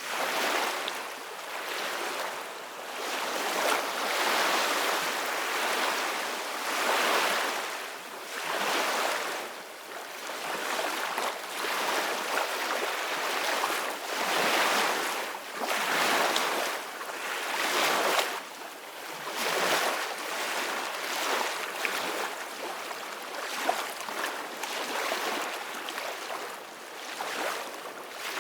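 Ocean waves breaking and washing onto the shore, a continuous hiss of surf that swells and ebbs every second or two.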